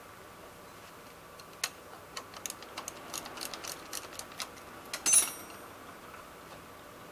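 Hand-tool work on car parts: a run of light, irregular clicks, then a sharp metallic clink with a brief high ring about five seconds in.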